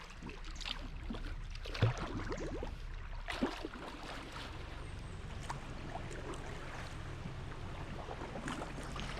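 Kayak paddle strokes on a flowing river: the blades dip in with scattered small splashes and drips, over a steady low rumble.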